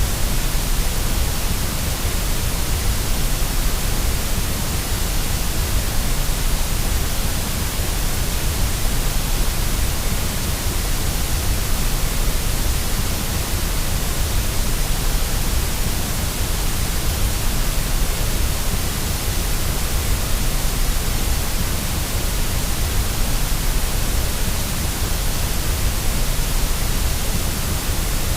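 Steady white noise for soothing a baby to sleep: an even, unchanging hiss with a deep rumble underneath.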